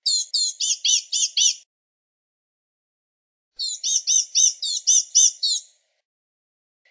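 Blue-gray gnatcatcher singing: two quick phrases of high, thin notes, the second starting about three and a half seconds in.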